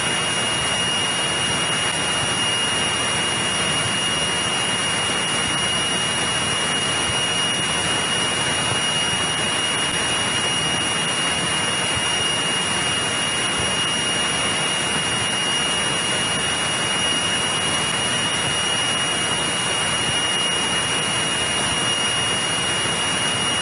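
Steady engine and propeller noise from a 1963 Cessna 172E's Continental O-300-D in climb, heard from the cabin as an even rush with a thin steady high whine over it.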